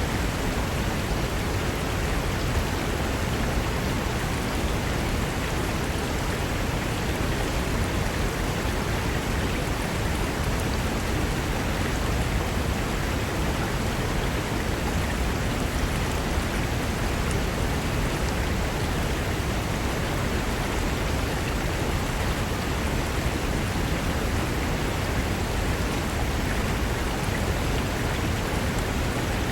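Mountain river rushing over rocks: a steady, even rush of water with no breaks or changes.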